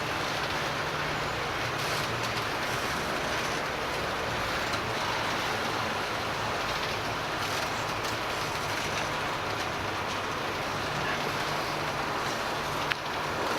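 Train rolling past: a steady rumble and hiss of wheels on rail with a faint low engine hum, and one sharp click near the end.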